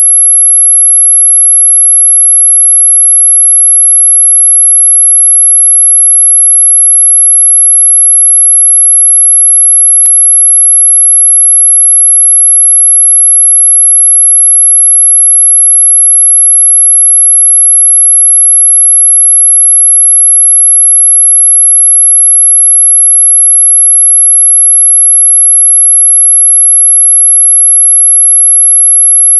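A loud, steady, very high-pitched pure tone, held unchanged and played as an "ultrasonic" mosquito-repellent sound, though it lies well within hearing. A faint click about ten seconds in.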